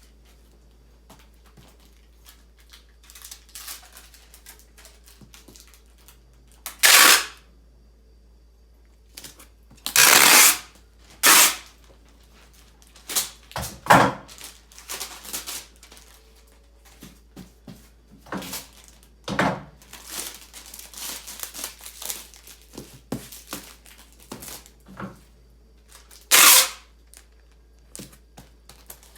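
Rustling and crinkling of handled material, broken by about six short, loud ripping sounds spread through, the loudest near the start of the second third.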